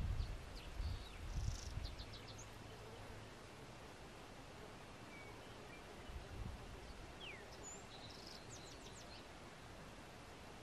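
Wild birds giving a few short high chirps and quick sliding calls, in two brief clusters near the start and again about seven to nine seconds in, over a faint steady hiss of open-air background. Low rumbling in the first two seconds.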